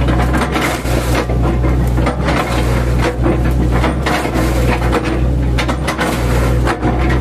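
Mini excavator's engine running steadily under load while its bucket chops into a felled oil palm trunk, with repeated irregular crunching and splintering of the fibrous wood.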